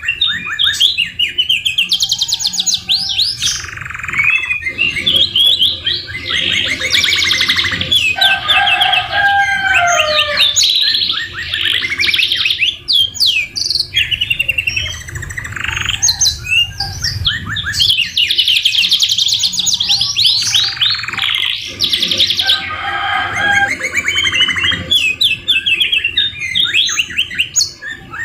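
Domestic canaries singing continuously in long, fast rolling trills and chattering phrases, a mix that includes phrases copied from the white-rumped shama (murai batu). Lower whistled, gliding notes come in about eight seconds in.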